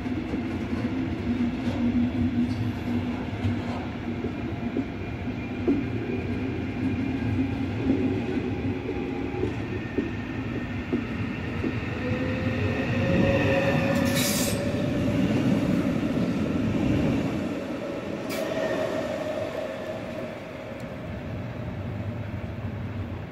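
Electric-locomotive-hauled double-deck regional train pulling away over the tracks: a steady rumble of wheels on rail with light knocks, and a wheel squeal that sets in partway through and rises slightly in pitch. A brief high-pitched burst comes about midway.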